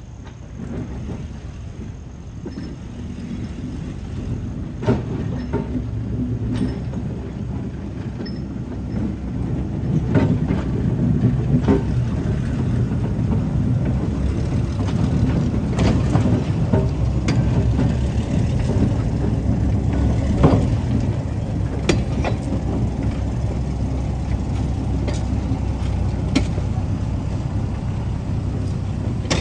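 Brill interurban car 120 moving the Whitcomb diesel switcher No. 9 slowly along the track: a low rumble of wheels on rail that grows louder over the first ten seconds, with many scattered sharp clanks and clicks.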